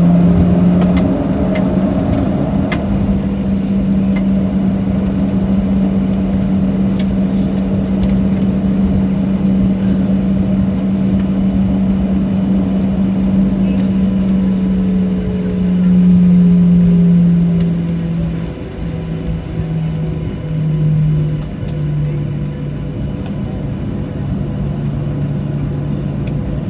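Inside the cabin of a Boeing 737-700 after landing: the steady hum of the jet engines at idle while it taxis, with a low drone that swells briefly about two-thirds of the way through and then steps down in pitch a few times.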